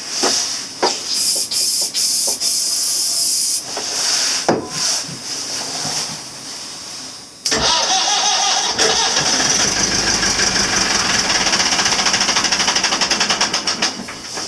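Starting spray hissing in short squirts, then the Perkins 4.236 four-cylinder marine diesel cranking on its starter with an even, pulsing chug for about six seconds before stopping. The engine is on a start-gas attempt after three months in salt water.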